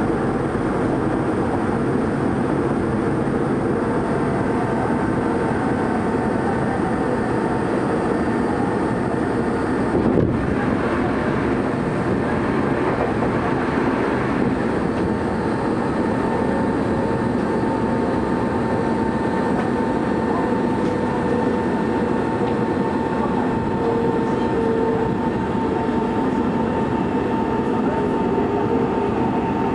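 Running noise of a Tokyo Metro 03 series train heard from inside the car, steady rumble from wheels and motors with a thin steady whine. About ten seconds in another train passes close on the adjacent track with a sudden whoosh that lasts several seconds.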